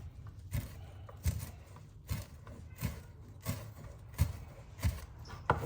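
A kitchen knife chopping fresh herbs on a cutting board, with steady, evenly spaced knocks of the blade on the board at about one and a half a second.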